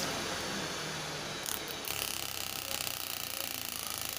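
Five-wire washing machine motor running steadily at speed on the bench, freshly rewired to turn in the opposite direction.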